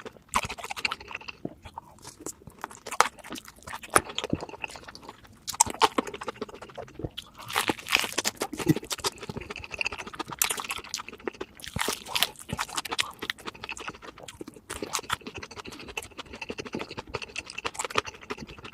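Close-miked chewing and crunching of crispy fried food, a run of irregular crackling crunches between bites.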